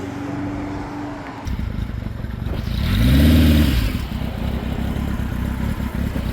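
Motorcycle engines running. About three seconds in, one bike's engine gets louder and rises then falls in pitch as it revs or rides past, then settles back to a steady rumble.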